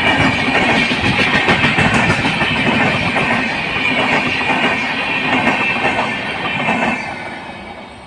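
Passenger train coaches rolling past on the rails, the wheels clattering steadily over the track with a continuous rushing noise. The sound falls away over the last second as the final coach goes by.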